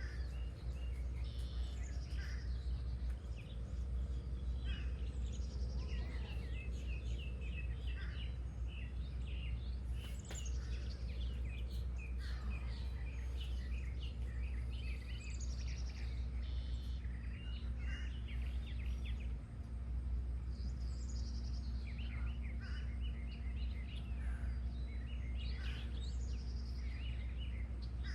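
Several wild birds singing, with quick runs of chirps and repeated down-slurred whistles, over a steady low rumble.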